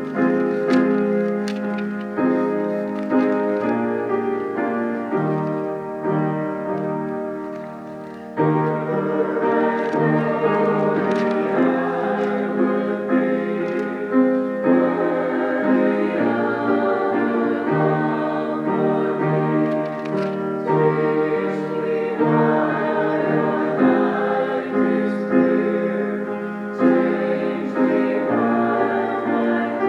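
Church choir singing with piano accompaniment, sustained chords with a short softer passage about a third of the way in before the music swells again.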